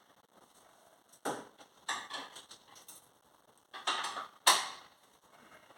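Irregular metallic clinks and knocks of hand tools against metal parts, about five separate hits with the loudest near the end.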